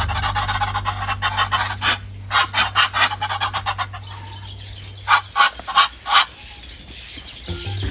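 Short, sharp bird calls, several in quick succession, over background music whose steady bass note stops about five seconds in.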